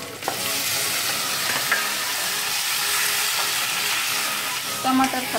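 Chopped tomatoes frying in hot oil in a saucepan, sizzling as they are stirred with a spatula. The sizzle starts sharply just after the start and then holds steady.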